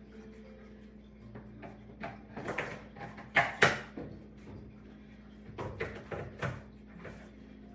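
Irregular knocks, clicks and scrapes of hard objects being handled, loudest about three and a half seconds in, over a faint steady hum.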